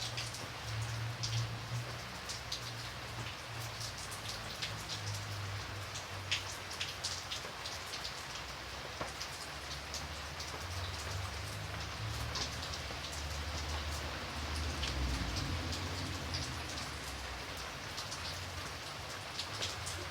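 Steady rain falling, with many scattered individual drops ticking sharply on a surface over the even hiss, and a low steady rumble underneath.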